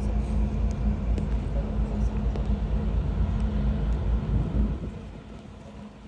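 Wind buffeting the microphone as a loud, gusting low rumble, which eases off about five seconds in. A steady low hum runs under it throughout.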